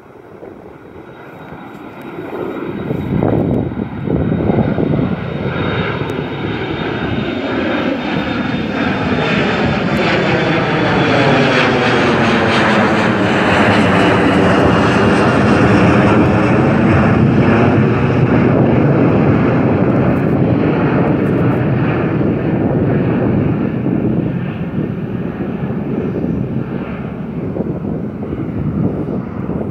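Jet airliner departing, its engine noise rising sharply a couple of seconds in and staying loud as it passes, with a high whine that drops slightly in pitch.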